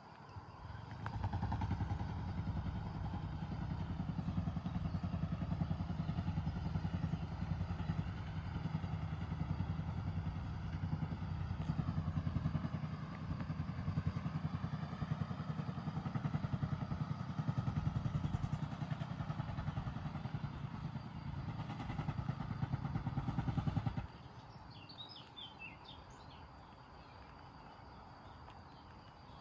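A motor engine running close by: a steady low rumble that starts about a second in and cuts off abruptly about four-fifths of the way through. A bird chirps a few times just after.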